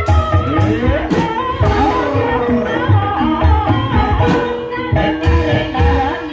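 Live Banyumasan gamelan music (gending ebeg) accompanying an ebeg dance: deep drum strokes under ringing metallophone tones, with a singer's voice gliding over the top.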